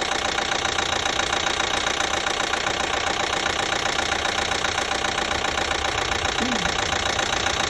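2012 Chevy Equinox's 2.4-litre four-cylinder engine idling steadily with a rapid, even ticking knock. The owner places the knock in the top of the engine and says it is not a rod knock.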